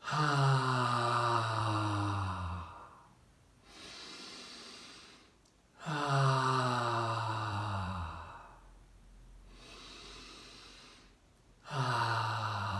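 A man voicing the qigong heart healing sound, a long open 'haaa' breathed out and sliding down in pitch, three times, with audible in-breaths between; the third begins near the end.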